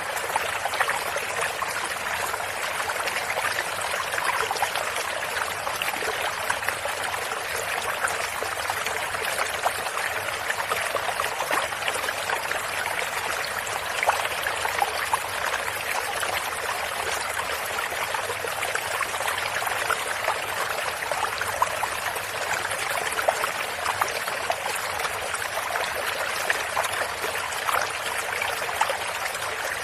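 Stream of running water, a steady rushing and trickling with many small splashes and no change in level.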